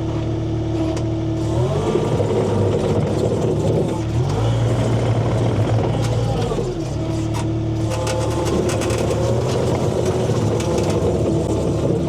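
Skid steer engine running, revving up and easing back down several times in a row.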